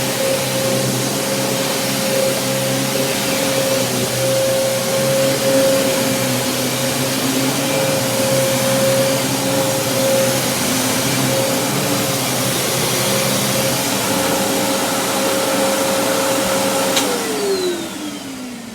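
Kenmore Progressive upright vacuum cleaner running with a steady motor whine over the rush of air. About 17 seconds in, a click switches it off and the motor winds down in a falling whine.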